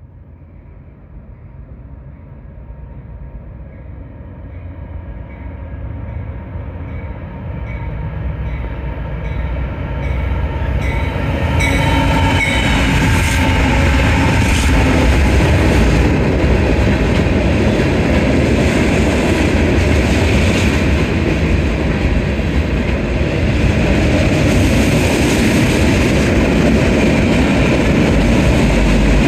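Norfolk Southern freight train approaching and passing close by: the diesel locomotives grow steadily louder over the first dozen seconds, then a string of tank cars rolls past with a steady, loud rumble of wheels on rail.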